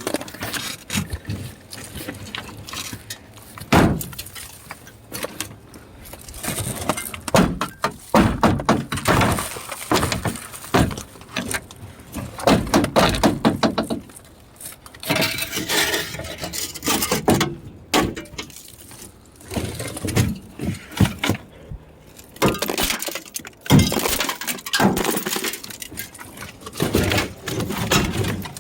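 Repeated strikes on an old truck's passenger-side window glass, breaking it out: sharp impacts and crunching shatters in clusters, with loose shards clinking.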